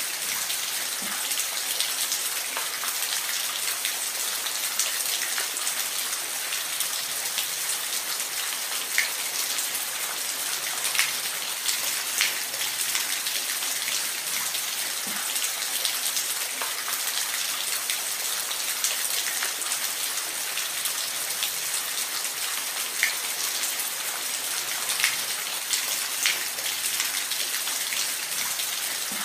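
Steady rain falling in a forest, a continuous even hiss with scattered louder individual drops ticking on leaves and surfaces.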